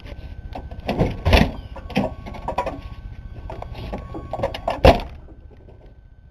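Vehicle door and cab handling: a string of knocks and clunks as someone gets in, ending in one loud slam of the door about five seconds in, with a steady high warning tone sounding through the middle.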